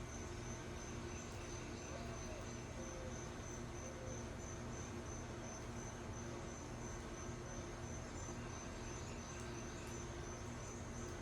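Insect chirping outdoors: a steady, high-pitched pulsing trill repeating a few times a second, over a steady low hum.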